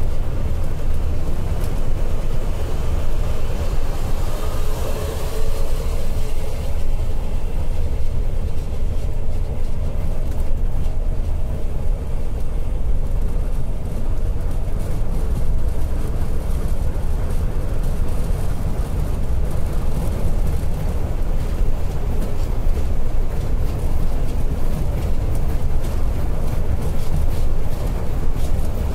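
Scania K410iB coach running at speed on the highway: a steady low rumble of engine and road noise.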